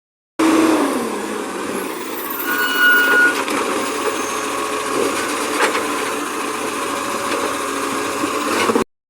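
Garbage truck running with a steady mechanical noise. A short high beep sounds about two and a half seconds in.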